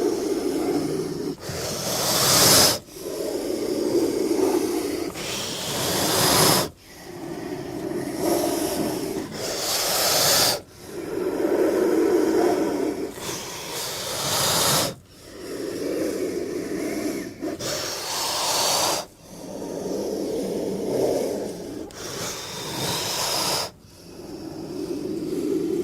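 King cobra hissing in long repeated breaths, about every four seconds. Each breath has a low, growl-like hiss followed by a sharper, higher hiss.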